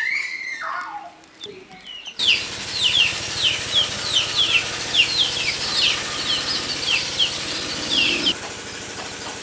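A bird calling with a rapid series of short, falling chirps, about two or three a second, which begin about two seconds in and stop abruptly near the end.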